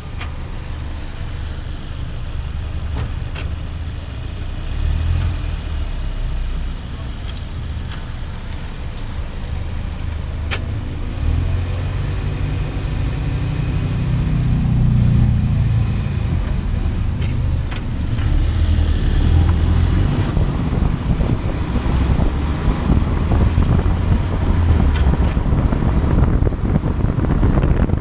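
2018 Ford Focus RS, with its stock exhaust and 2.3-litre turbocharged four-cylinder engine, being driven. The engine note climbs in pitch under acceleration about halfway through, then eases off. Wind and road rush build and grow louder toward the end as speed rises.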